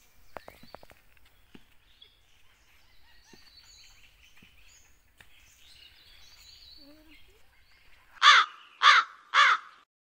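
A crow cawing three times in quick succession, loud, near the end, with faint bird chirps before it.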